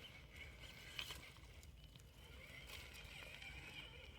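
Faint sound of a Traxxas TRX-4 RC crawler creeping over rough ground, with a small click about a second in.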